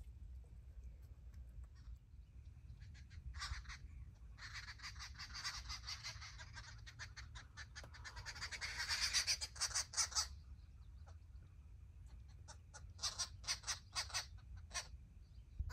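A group of birds chattering in rapid, harsh calls. A long spell runs from about four to ten seconds in, and a shorter spell comes near the end.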